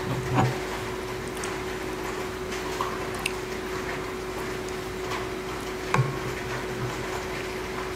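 Close-miked wet chewing of black bean noodles, with two louder mouth sounds, about half a second in and again at six seconds, and small clicks between. Steady rain noise and a faint steady hum run underneath.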